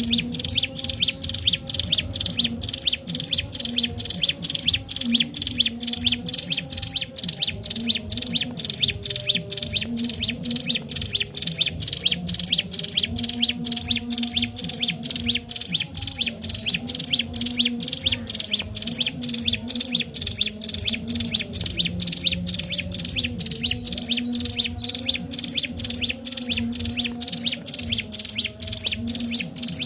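Ciblek gunung, a prinia, calling non-stop in a rapid run of short, high chirps, several a second, without a break.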